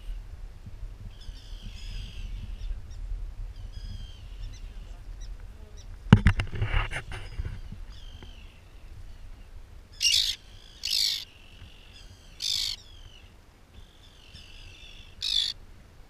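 Birds calling repeatedly with short high chirps, then four louder, harsher short calls from about ten seconds in. A loud knock and rustle about six seconds in.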